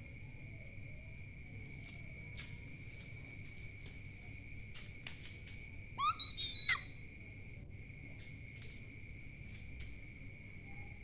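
One short whistled owl call, under a second long and rising at its start, about six seconds in; it is the loudest sound. Behind it a steady high-pitched chorus of night insects runs throughout, with a few faint clicks.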